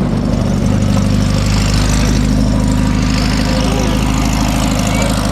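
Engine idling steadily and loudly close by, an even low running note with no change in speed.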